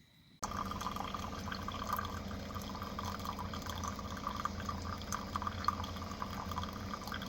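Running water, a steady trickling and splashing with many small irregular drips, starting suddenly about half a second in.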